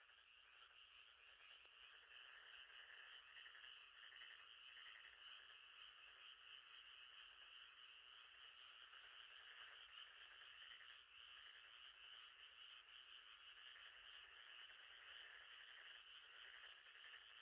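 Faint, steady chorus of frogs calling, with a fine rapid pulsing that does not let up.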